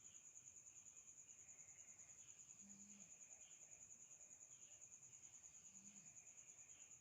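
Faint, steady, high-pitched insect trill, pulsing rapidly without a break, with a short, faint low note about three seconds in and again near six seconds.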